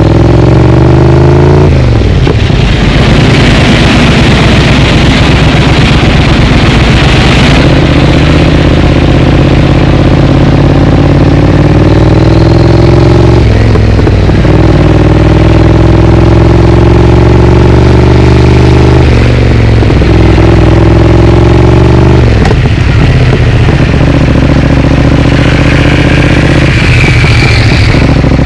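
Triumph Speed Twin parallel-twin engine through a Vance & Hines aftermarket exhaust, pulling under acceleration: the engine note climbs, then drops back at each upshift, several times.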